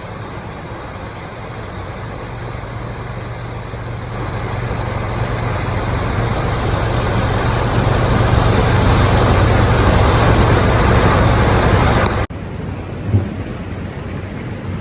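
Steady rushing roar of the swollen Takahashi River in heavy rain, with a deep rumble, growing louder over the first ten seconds. About twelve seconds in it cuts off abruptly into a quieter rush, with a short knock soon after.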